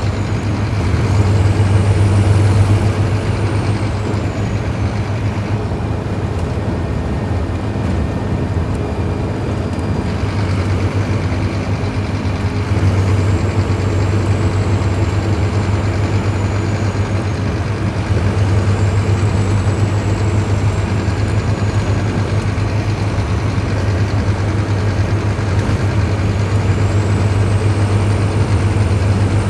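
Scania K310IB bus's diesel engine running, its low drone swelling and easing a few times as the load changes. A faint high whine rises and falls several times over it.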